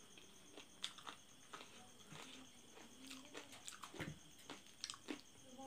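Faint chewing and biting of spicy curried chicken feet, with scattered short clicks and smacks about a second apart.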